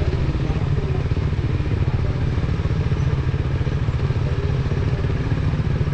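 KTM 250 Duke's single-cylinder engine running steadily while the motorcycle is ridden, a continuous low rumble with fast even pulsing.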